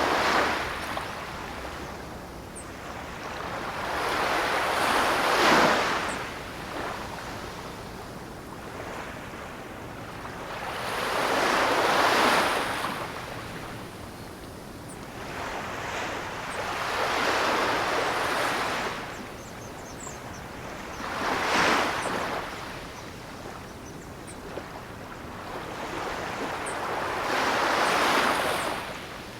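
Ocean waves washing in and drawing back, a hissing surge that builds and fades about every five to six seconds, six times over.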